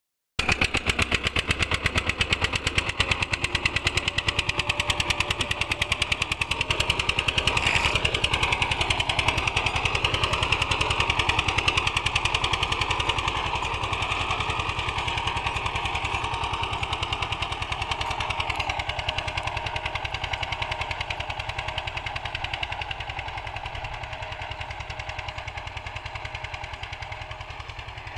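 Old-model Eicher tractor's diesel engine running with a rapid, steady chug while pulling a cultivator. It gradually grows fainter over the second half.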